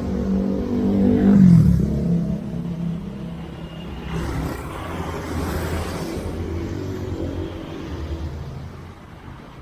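Motor vehicles passing on the road. The first is loudest about a second and a half in, its engine note dropping as it goes by, and a second, fainter engine passes a few seconds later.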